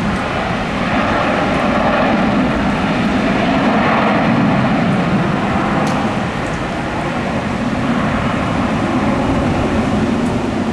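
Jet airliner engines running steadily, a continuous loud rushing roar of an aircraft moving on or near the runway, swelling slightly a few seconds in.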